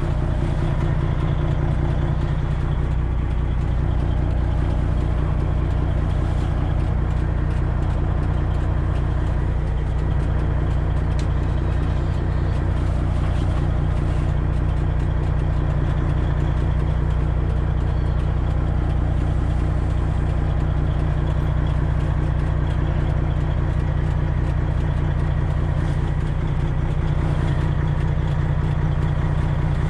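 Freightliner Classic semi truck's diesel engine running steadily at low speed, a constant low drone with no change in pitch.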